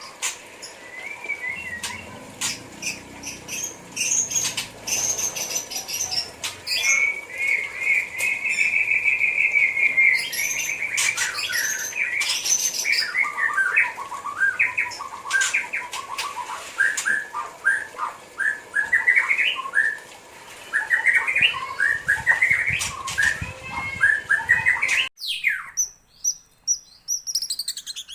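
White-rumped shama (murai batu) singing a long, varied song of clear whistles, rapid trills and chattering phrases, with sharp clicks scattered through it.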